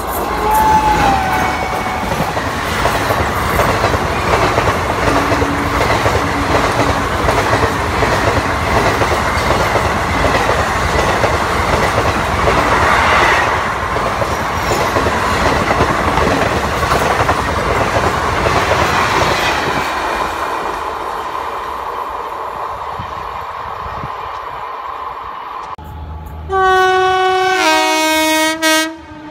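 An express train behind a WAP-4 electric locomotive passes at speed, the noise of its wheels and coaches loud for about 20 seconds and then fading. Near the end, the locomotive of an approaching train sounds a loud air horn for about three seconds, its pitch stepping down.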